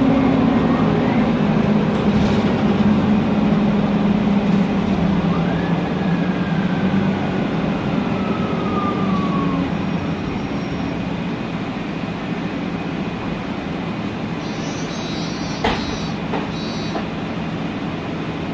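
Mercedes-Benz Conecto NGT city bus heard from inside: its engine and cooling fan running as the bus slows, the drone dropping away, with a whistle from the Voith DIWA automatic gearbox gliding down in pitch. A sharp click late on.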